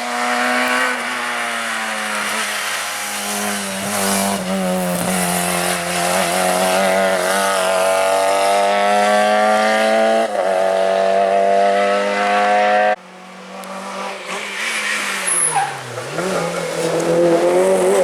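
Hill-climb race car engine at full throttle, pitch climbing steadily and briefly dipping at a shift about ten seconds in. About thirteen seconds in it cuts off abruptly, then revs up and down again toward the end.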